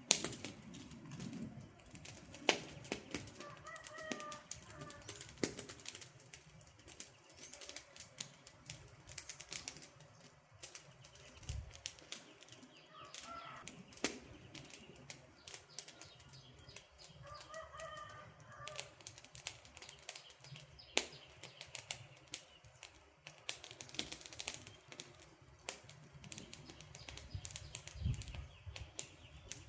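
Wood campfire crackling, with irregular sharp pops and snaps over a soft hiss. A bird calls briefly four times.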